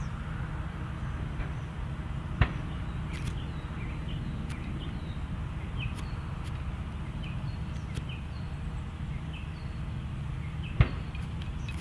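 A steady low rumble with faint, short bird chirps over it and two sharp clicks, one about two seconds in and one near the end.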